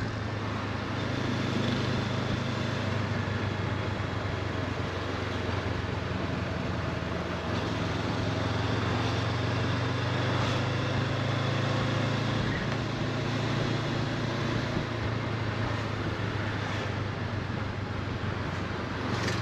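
Honda CB500X parallel-twin engine running steadily at cruising speed under wind and road noise, the engine note shifting slightly about seven seconds in.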